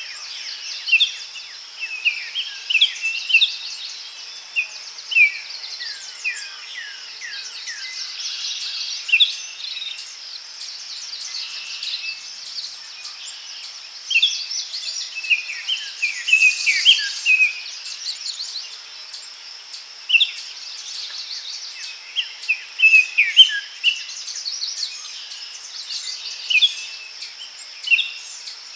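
Daytime forest ambience: many birds chirping in short, mostly falling calls over a steady, high-pitched insect drone, with a fast, even series of high ticks running through much of it.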